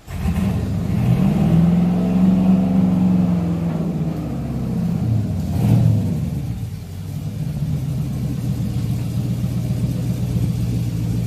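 The engine of a 3D-printed Lamborghini Aventador replica revs up and back down, is blipped again about six seconds in, then settles into a steady idle.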